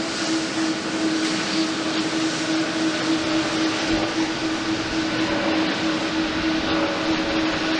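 Jet airliner engine noise: a steady rushing noise with a constant droning hum underneath.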